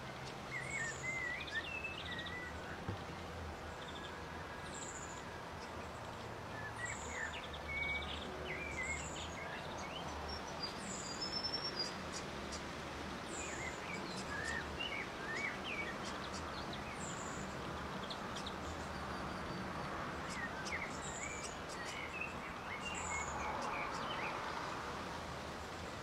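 Birds calling over a steady background hiss: a thin, very high note repeated about every second and a half, with several short bursts of twittering chirps.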